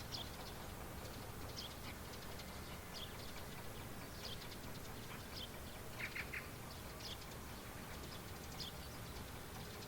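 A small bird repeating a short, high two-note chirp about every second and a half, with a louder burst of three quick chirps about six seconds in, over a faint steady outdoor background.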